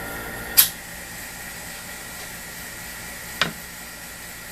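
Steady air hiss from the vacuum fixture setup. A sharp click comes about half a second in, where a low hum stops, and a second click comes near the end.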